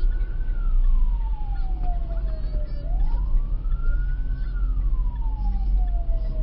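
A siren wailing in slow cycles, each rising quickly and then falling away over about two seconds, over a steady low rumble.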